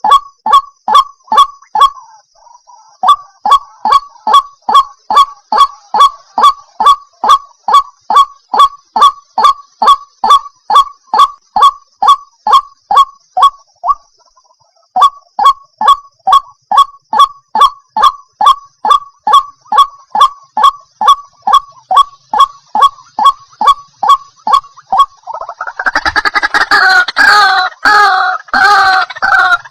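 White-breasted waterhen calling: a loud, monotonous series of single notes, about three a second, broken by two short pauses. Near the end it turns into a denser, harsher bout of overlapping croaking calls.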